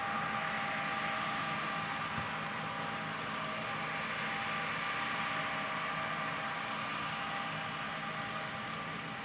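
John Deere S670 combine harvester running steadily while harvesting soybeans: an even machine hum and hiss with a few steady whining tones.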